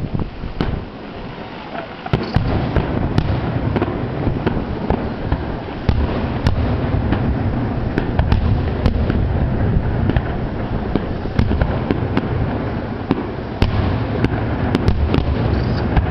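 Fireworks display finale: a dense barrage of shell bursts and crackle, with sharp bangs coming several a second over a continuous low rumble. It eases briefly about a second in and thickens again from about six seconds.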